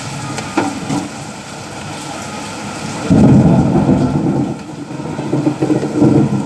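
Steady rain falling, with a loud low roll of thunder that starts about three seconds in and swells again near the end.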